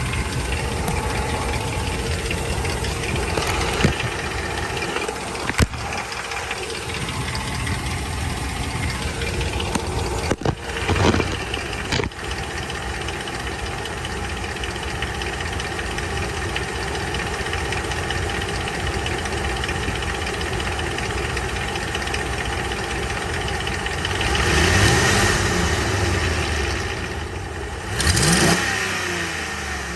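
Ram 1500 pickup's engine idling, revved briefly three times, twice near the end. It has a knock that the owner suspects may be rod knock.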